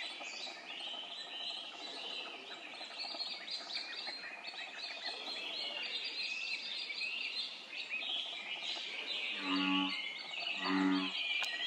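Birds chirping and peeping densely and continuously, with two short low calls about ten and eleven seconds in.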